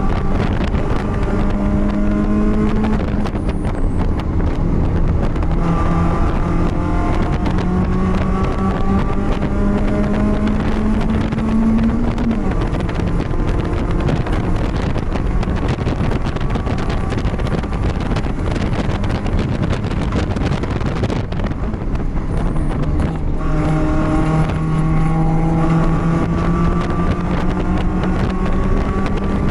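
BMW race car's engine heard from on board under racing load, its pitch climbing steadily through each gear and falling away as the driver lifts off or shifts, a few times over, with wind and road noise throughout.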